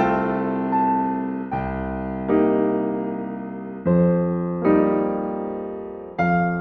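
Slow solo piano music: chords struck every second or so, each left to ring and fade before the next.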